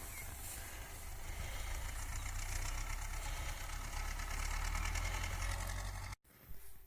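Tractor engine running steadily as it mows with its mower; the sound cuts off suddenly about six seconds in.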